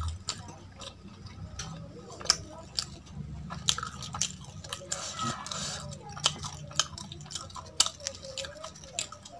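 Close-miked chewing with many sharp, wet mouth clicks, and fingers tearing aloo paratha on a steel plate.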